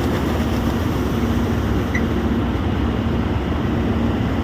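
Farm harvesting machinery at work during wheat harvest: a steady, loud engine drone with a constant low hum.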